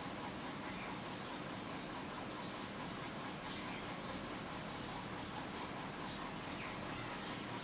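A cricket chirping steadily, a high pulse about three times a second, over a constant background hiss.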